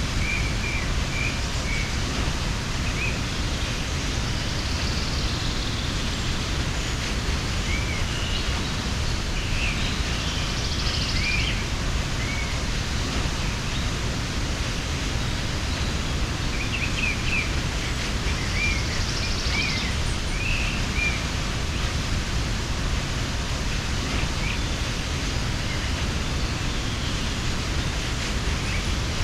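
Waterfall rushing in a steady, even roar, with small birds chirping in short scattered phrases over it.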